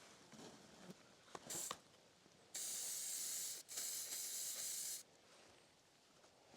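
Aerosol spray paint can spraying: one short puff, then two long sprays with a brief break between them.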